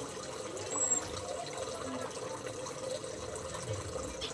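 Water running and trickling steadily, with a brief high bird chirp about a second in.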